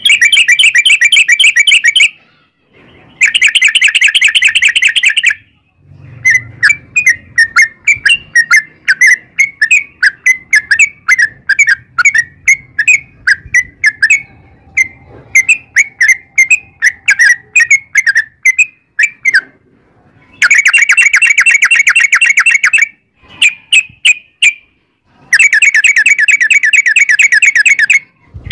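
Yellow-vented bulbul (trucukan) song: loud bursts of very fast rolling chatter about two seconds long, three times at the start and end, with a long stretch of quick, separate bubbly notes between them.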